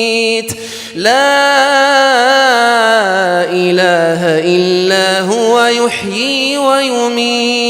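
Quran recitation: a single unaccompanied reciter's voice chanting in the melodic tajweed style, holding long drawn-out vowels with ornamented turns of pitch. It pauses briefly for breath about half a second in and again near six seconds.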